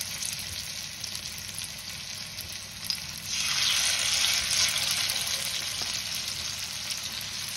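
Spinach, soya and gram-flour cutlet batter shallow-frying in hot oil in a pan, sizzling steadily. The sizzle grows louder about three seconds in, as a second portion of batter goes into the oil.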